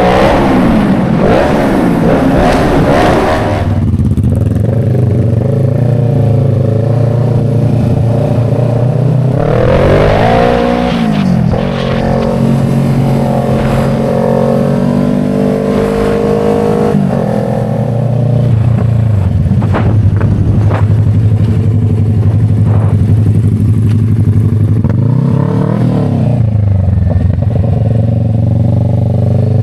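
Motorcycle engine running while riding, a steady drone with the revs swept up and down through gear changes three times: near the start, about ten seconds in, and again a few seconds before the end.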